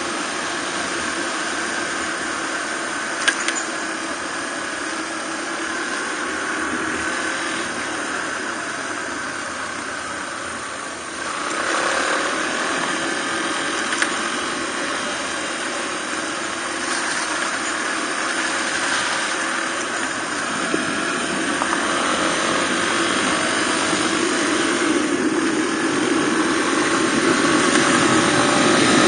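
Suzuki DR250R's single-cylinder four-stroke engine running while the bike is ridden. The engine note dips briefly about eleven seconds in, then picks up again, and grows gradually louder toward the end.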